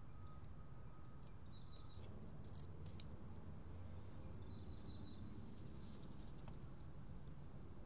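Faint short chirps of small birds at a feeder, clustered in the first two-thirds, with a few light clicks, over a steady low background rumble.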